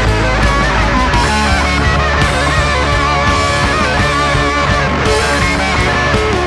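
Guitar-led rock music, an instrumental passage without singing.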